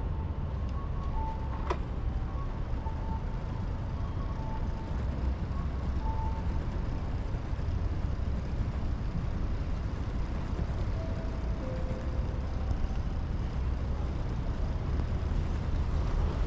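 Outdoor street ambience: a steady low rumble of road traffic, with faint short tones and a single click just under two seconds in.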